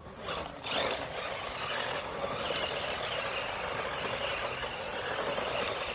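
Remo Hobby 1631 1/16-scale RC monster truck driving on dusty ground, its electric motor and tyres making a steady whirring noise that starts just after the beginning and stops near the end.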